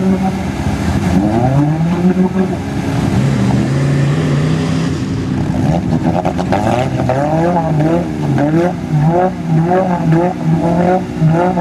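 Suzuki Samurai's engine revving under heavy load as it churns through deep mud. The revs are held high at first, then climb and drop again and again about once a second as the throttle is worked.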